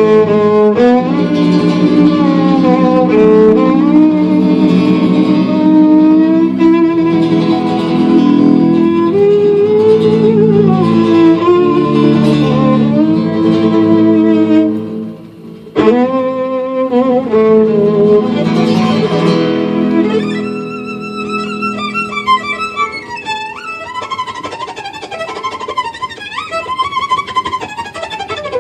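Live band playing a world-music instrumental, with a violin carrying the melody over guitar. About fifteen seconds in the music breaks off briefly, then returns; around twenty seconds it drops to a quieter passage of quick, high violin runs.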